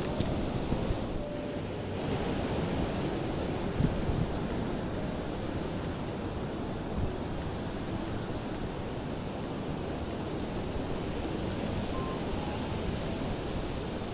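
Strong winter wind buffeting a trail camera's microphone, a steady rumbling rush, with short high chirps of small birds every second or two.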